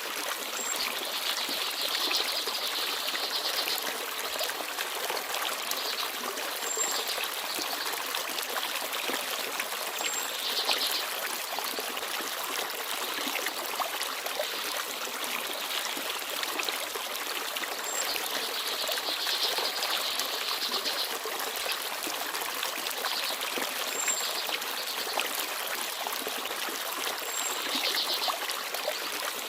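Forest stream babbling and trickling steadily, with a small bird's short, very high chirp every few seconds.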